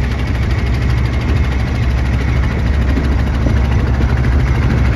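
A boat's engine running steadily with a deep, even rumble.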